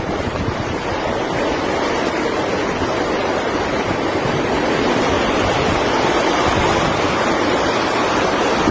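Hurricane wind and surf: a steady rushing noise that builds slowly and evenly.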